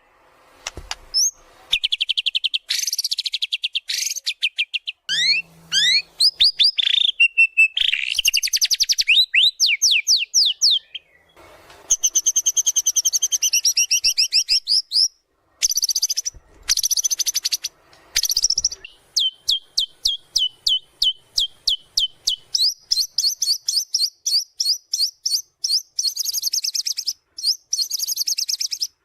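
White-rumped shama singing a fast, varied song: rising whistled notes, rapid rattling trills and long runs of quick repeated notes, with brief breaks.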